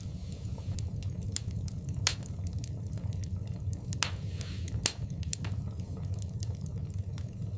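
Wood fire in a fireplace crackling, with irregular sharp pops over a steady low rumble; the loudest pops come about two and five seconds in, with a short hiss just after four seconds.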